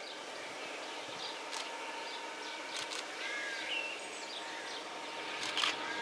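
Small birds chirping and calling in short scattered phrases over a faint steady hiss of outdoor background, with a faint steady hum.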